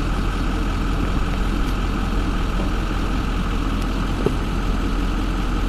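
A vehicle engine idling steadily, with a constant low rumble.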